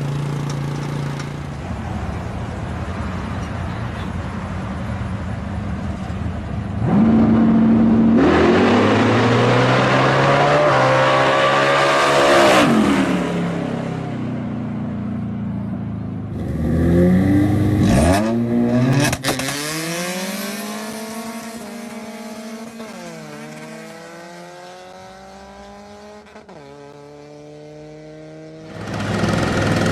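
Drag-racing cars: engines running steadily, then accelerating hard with the pitch climbing for several seconds before falling away. Later a car pulls away through three or four gear changes, the pitch dropping at each shift and climbing again as it fades into the distance, before another engine comes in loud near the end.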